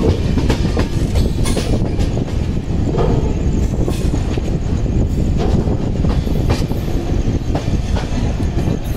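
Jan Shatabdi Express passenger train running on the rails: a steady low rumble with sharp wheel clacks about once a second.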